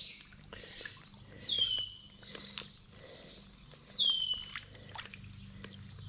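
A songbird calling: a single whistled note that slurs down in pitch, repeated about every two and a half seconds.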